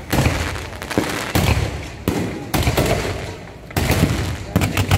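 Aerial fireworks bursting one after another, about eight sharp bangs in quick succession, each followed by a rumbling decay.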